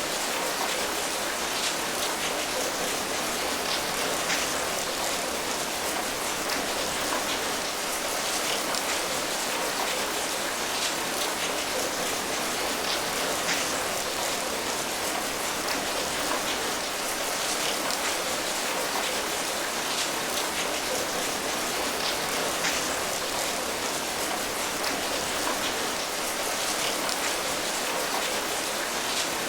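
Steady rain falling, an even patter with many small drop taps.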